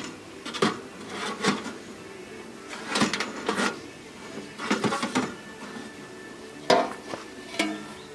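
Irregular knocks and clatters of hard objects being handled, a dozen or so over several seconds, with the sharpest one near the end.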